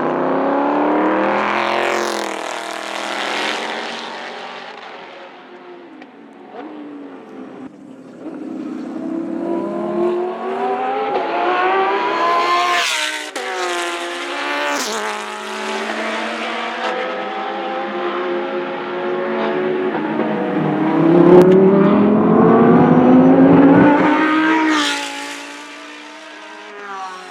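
Race cars passing one after another on a road course, their engines rising in pitch under acceleration and dropping back at each gear change. The loudest pass comes a little after twenty seconds in.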